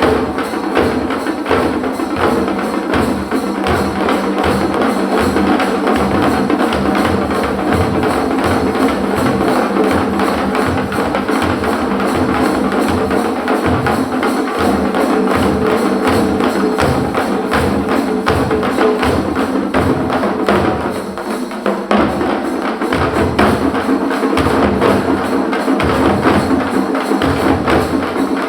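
Parai frame drums, struck with a pair of sticks by an ensemble, playing a fast, dense rhythm of sharp cracks over a steady pulse of deep beats. The playing thins out briefly about three quarters of the way through, then picks up again.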